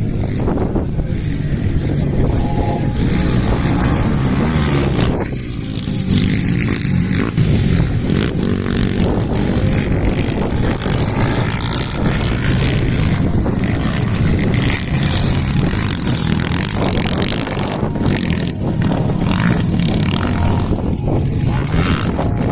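Racing motorcycles in the CG Pro class, Honda CG-based single-cylinder four-strokes, running hard, their engines revving up and down as they ride the track, with a short drop in level about five seconds in.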